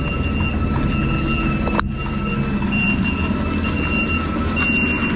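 Vehicle engine running with a steady low rumble, a thin high steady tone sounding over it on and off; a brief drop-out about two seconds in.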